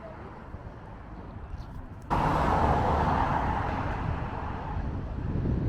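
Low steady vehicle rumble; about two seconds in it switches abruptly to much louder, steady road-traffic and wind noise.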